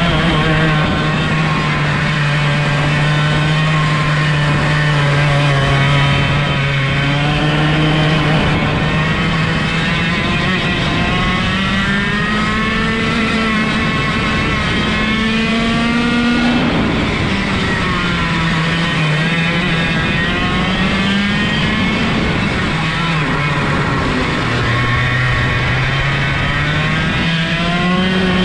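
125cc two-stroke kart engine running hard, its pitch climbing and dropping several times. With no gearbox, the revs rise and fall with the kart's speed.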